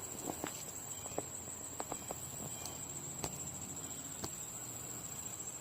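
A steady, high-pitched insect chorus, typical of crickets, with a few light scattered clicks over it.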